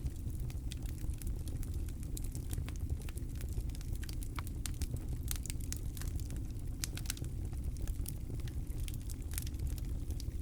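Campfire crackling: irregular sharp pops and snaps from the burning wood, several a second, over a steady low rumble.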